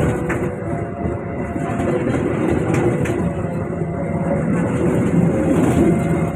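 A train passing close by, a steady loud rumble of wheels on the rails.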